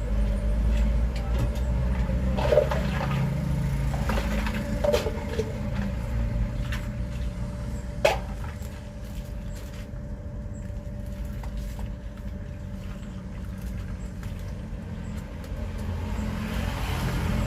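Low rumble of road traffic going past, louder in the first half and easing off, with scattered small clicks and one sharp knock about eight seconds in.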